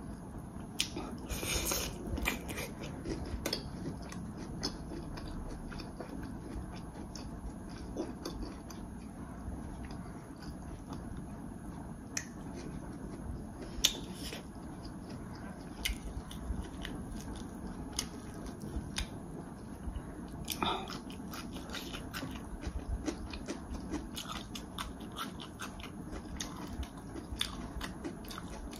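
A person chewing and eating a meal, with many small irregular clicks and smacks and one sharper click about halfway through.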